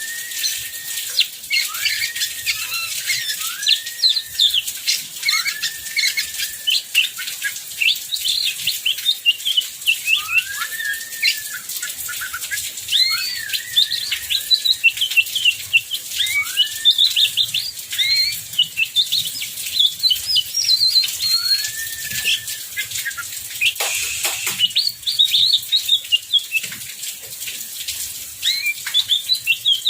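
Oriental magpie-robin (kacer) singing a long, varied song of whistles, chirps and repeated arching notes, over the steady hiss and patter of heavy rain.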